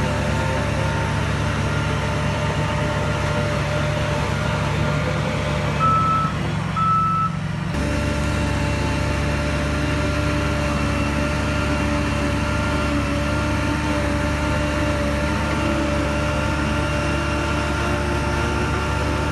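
Heavy construction machinery's diesel engine running steadily, with two short reversing-alarm beeps about six and seven seconds in. The engine note changes about eight seconds in.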